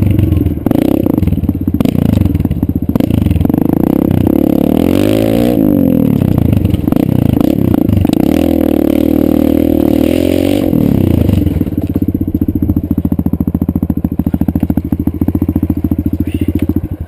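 Kawasaki KLX140 dirt bike's single-cylinder four-stroke engine running, revved up and down twice, then settling to a steady idle for the last five seconds or so. The sound stops abruptly at the end.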